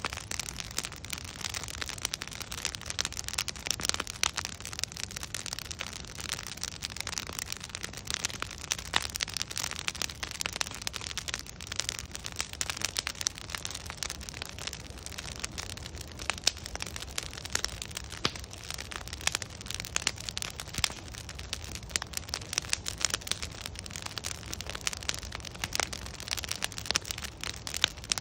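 Wood fire burning with continual irregular crackles and pops from the burning logs over a steady low rumble and hiss.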